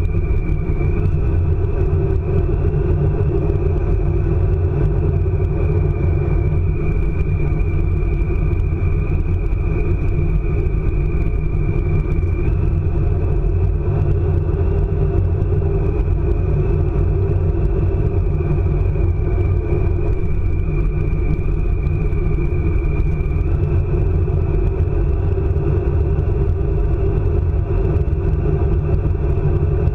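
ICE high-speed train running at speed: a steady heavy rumble with a high whine that steps slightly up and down in pitch every few seconds.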